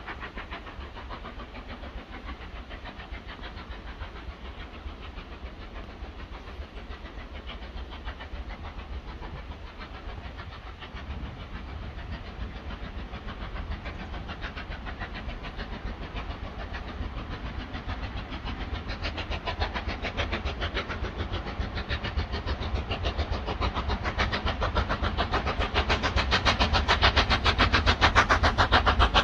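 LMS Black Five two-cylinder 4-6-0 steam locomotive working a train, its exhaust beats coming fast and even and growing steadily louder as it approaches.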